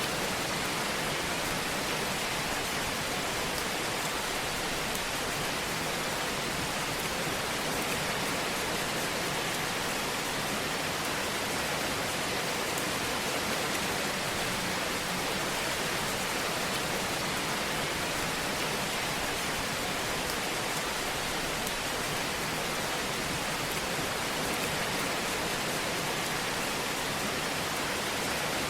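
Fire burning in a fireplace: a steady, even hiss with faint fine crackling throughout.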